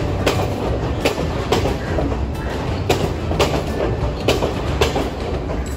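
Sri Lanka Railways passenger train carriages rolling slowly past along a station platform: the wheels clack over rail joints in a steady beat of about two knocks a second, over a low, constant rumble.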